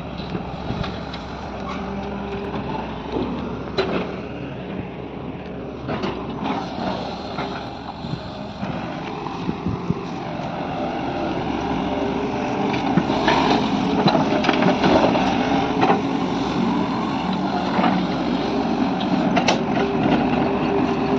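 Diesel engine of a Sany SY215C excavator running under load, with scattered knocks and clanks. It grows louder about halfway through.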